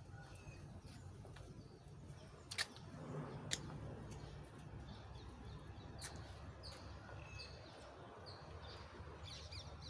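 Faint outdoor ambience: small birds chirping now and then over a low steady rumble, with two sharp clicks about two and a half and three and a half seconds in.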